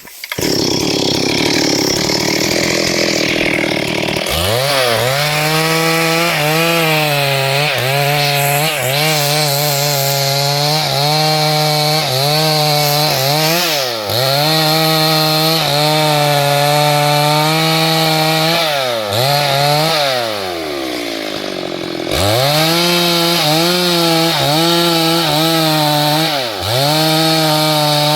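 Two-stroke chainsaw running at full throttle and cutting wood, its high engine note dipping and recovering again and again as the chain takes load. It opens with a few seconds of loud rushing noise before the engine note climbs. About two-thirds of the way through it drops off for a couple of seconds, then revs back up.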